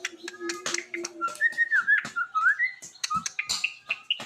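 Beatbox clicks and pops traded with rising and falling whistled phrases, in the manner of a murai (magpie-robin) song battle. The whistled notes glide up and down from about a second in.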